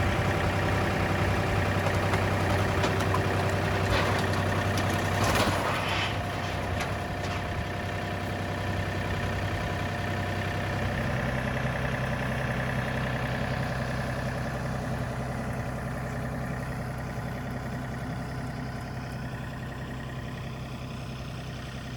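An engine running steadily, with a cluster of clattering knocks about four to six seconds in. The engine's note shifts lower about eleven seconds in.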